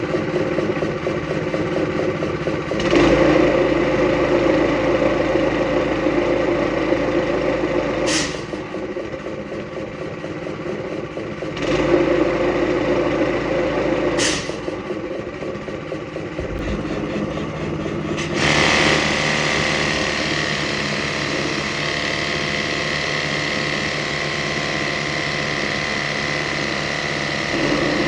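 Small gas engine driving a belt-driven air compressor pump, its speed dropping and picking up again several times as the throttle control valve works, with two short sharp pops of air. About two-thirds of the way through, a steady whistling hiss of air bleeding off through the pilot unloader valve begins and carries on over the engine at idle.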